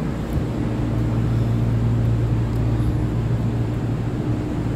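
Steady low hum of a train, with one deep, even tone and a fainter higher one under it.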